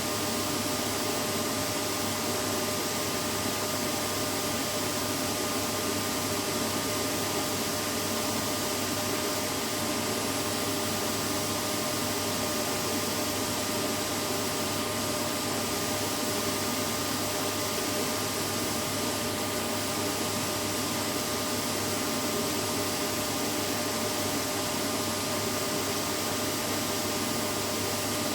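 Vacuum cleaner running steadily: a constant whooshing noise with a faint steady whine, no change in pitch or level.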